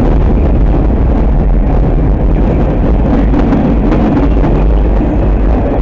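A train passing close by, a loud, steady noise.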